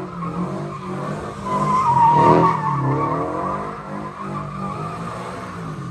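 A car sliding under power, its tyres squealing over a revving engine; the squeal is loudest about two seconds in.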